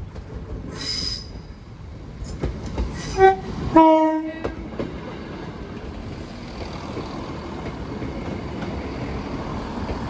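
Approaching passenger train sounding its two-tone horn about three seconds in, a short higher note then a longer lower one, followed by the steady rumble of the train running in over the crossing.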